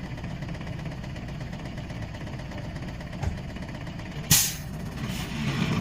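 Heavy truck engine running with a steady low rumble. A single knock comes a little after three seconds in, followed about a second later by a short, loud hiss of released air that fades quickly.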